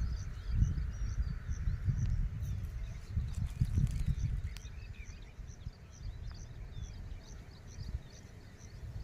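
Birds calling, one repeating a short high note about every two-thirds of a second with other chirps between, over a gusty low rumble of wind on the microphone that eases about halfway through.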